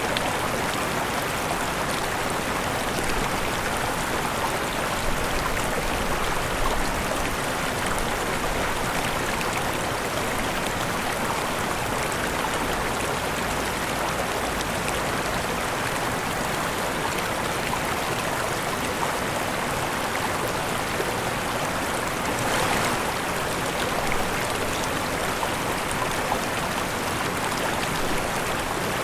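Steady rushing of falling water, a waterfall or fast stream, with an even splashing hiss and a brief slightly louder splash about three quarters of the way through.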